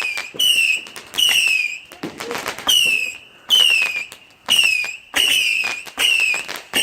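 Fireworks going off in quick succession, each a short whistle that falls slightly in pitch, about nine in all, with crackling pops in between.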